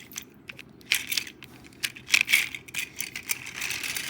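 Toy trains and trucks being handled and run along a toy track, clicking and rattling in a string of small knocks, thicker near the end.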